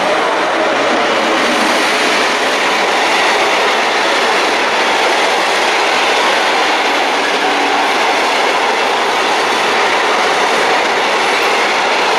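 A train running through a station at speed: a loud, steady rush of wheel and rail noise that holds level throughout.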